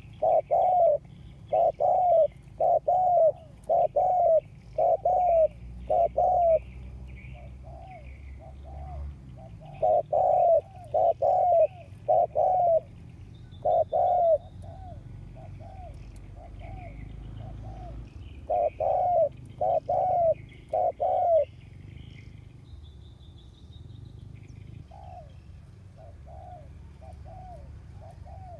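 Decoy spotted dove (cu gáy) cooing in fast runs of short coos, each a brief note that rises and falls, the runs broken by pauses of a few seconds. Faint chirps of small birds sound behind it.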